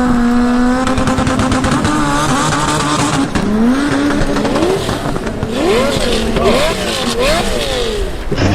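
Car engine revving sound: its pitch climbs to a steady drone, then rises and falls in several quick swoops near the end.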